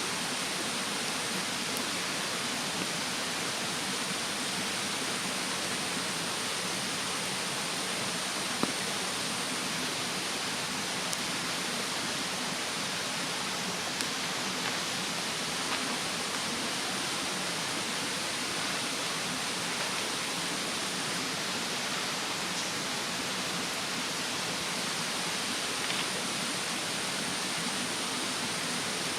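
Steady rush of a mountain stream with a wood bonfire giving a few sharp crackling pops, the loudest about nine seconds in; a steady high insect drone runs underneath.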